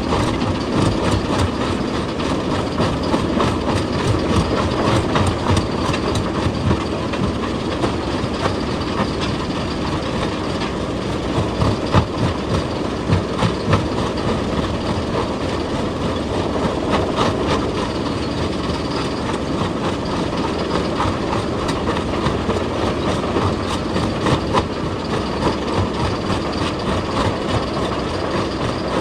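Excavator working on rock: its diesel engine runs steadily under continual irregular clanking and knocking, with a few louder knocks about halfway through.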